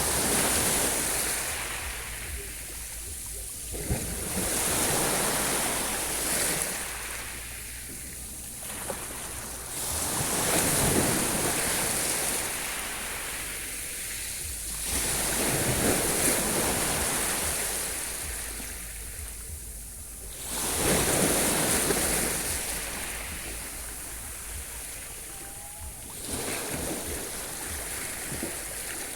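Sea waves washing in one after another, about every five seconds, each surge rising and then falling away.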